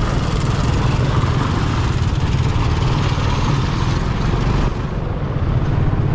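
Honda XRM 125 motorcycle's single-cylinder four-stroke engine running steadily under way, with road and wind noise. The noise eases briefly about five seconds in.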